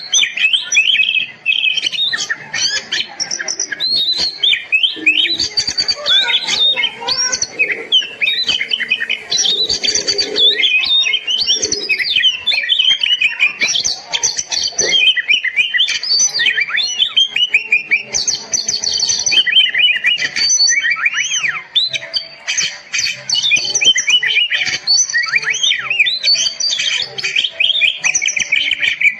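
Oriental magpie-robin (kacer) singing vigorously: a loud, continuous run of quick varied whistles, trills and chattering notes that rise and fall in pitch, with only brief breaks.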